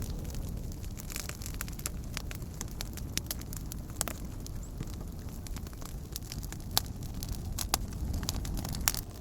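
Wood campfire crackling, with scattered sharp pops, a few louder ones in the second half, over a steady low rush.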